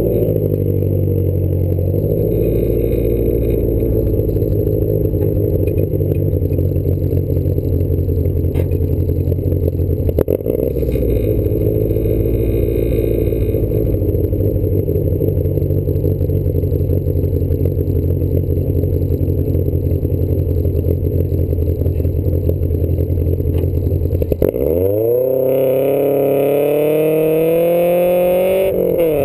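A Triumph sports car's engine during an autocross run, heard from inside the hardtop cabin. For most of the stretch it runs at a fairly steady pitch. Near the end it dips briefly, then revs up hard with a steeply rising pitch, shifts up, and climbs again.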